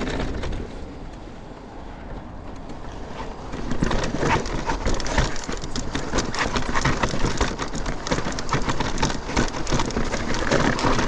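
Mountain bike riding down a dirt singletrack: tyres crunching and skittering over dirt and loose rock, with the bike rattling. Quieter for the first few seconds, then louder from about three and a half seconds in.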